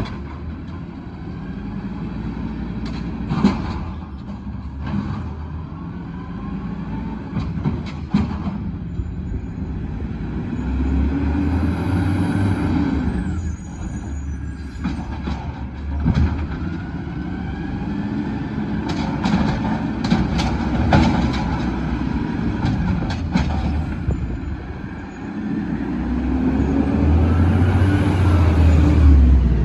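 Garbage truck engine revving up and down several times, with scattered knocks and clanks in between.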